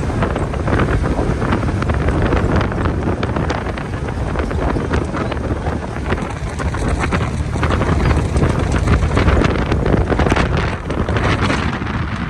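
A four-wheel-drive vehicle's engine running in a low gear as it drives through flooded ground, with water splashing and a stream of short cracks and spatters over a steady low rumble. Wind buffets the microphone throughout.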